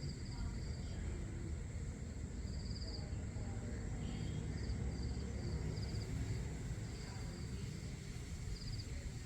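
Crickets chirping in short trilled chirps, repeating irregularly about every half second to a second, with a faint steady high whine above them and a steady low rumble underneath.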